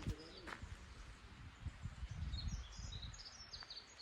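Small birds chirping in short, high notes, most of them in a quick cluster about two and a half to three and a half seconds in, over a low rumbling background noise.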